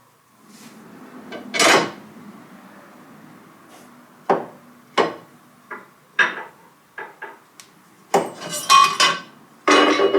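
Hand tools and metal parts clinking and knocking during mechanical repair work: scattered sharp metallic strikes with short ringing, becoming a busier rattling clatter near the end.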